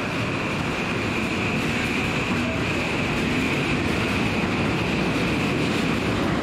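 Keikyu electric train running slowly over the station pointwork as it pulls in, a steady noise with a high-pitched tone over it that fades near the end.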